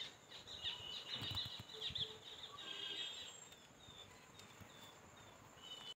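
Faint outdoor birdsong: birds twittering for the first few seconds, then a few short, spaced chirps.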